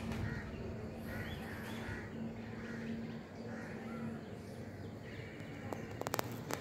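Bird calls: about six short calls in the first four seconds, over a faint steady low hum, with a few sharp clicks near the end.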